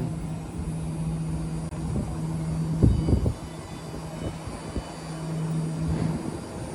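A BART Fleet of the Future electric train pulling out of the platform: a steady low hum with rumbling underneath and a few knocks about three seconds in.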